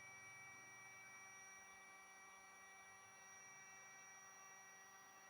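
Near silence: a faint, steady electrical hum with a few thin high tones.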